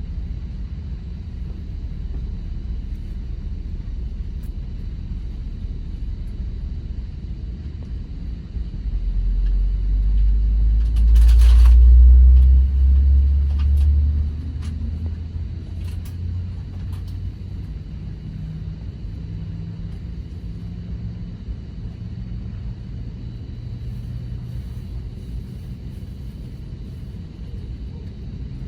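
Low cabin rumble inside an Airbus A321neo airliner on the ground, typical of taxiing. Near the middle, a deeper, louder rumble swells for about five seconds, with a brief click at its height, then settles back.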